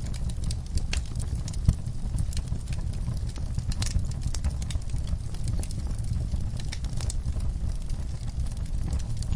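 Wood fire in a fireplace crackling, with irregular sharp pops and snaps over a steady low rumble of the flames; a few pops stand out louder.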